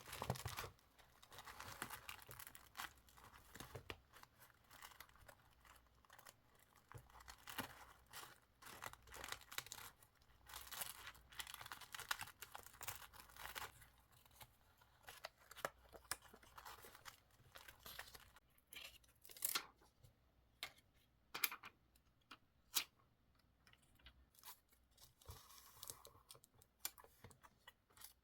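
Close-up paper handling for scrapbooking: paper rustling and tearing, with many small sharp clicks and taps. A few louder clicks come after about 19 s.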